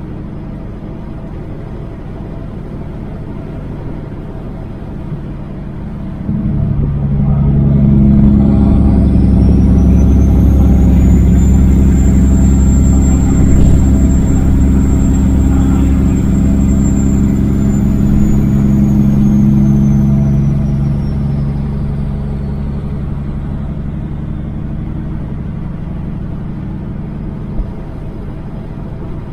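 Semi truck's Caterpillar diesel engine running under a heavy load. About six seconds in it grows much louder as it pulls harder, with a high turbo whine rising and holding, then easing and fading back down after about twenty seconds.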